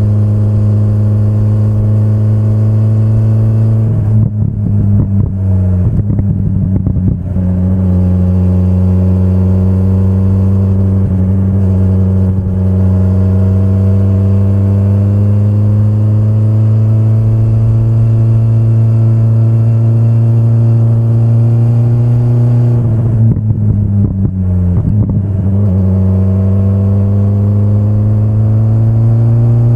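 2025 BMW S1000RR's inline-four engine running under way at steady moderate revs, its pitch climbing slowly. Twice the note breaks up briefly, dipping and picking up again: once about four to seven seconds in, and again about twenty-three to twenty-six seconds in.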